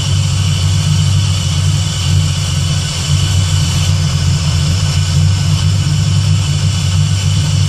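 Fox-body Mustang's swapped-in Terminator Cobra supercharged 4.6-litre DOHC V8 idling steadily while air is burped out of its cooling system. A constant low drone with a steady hiss above it.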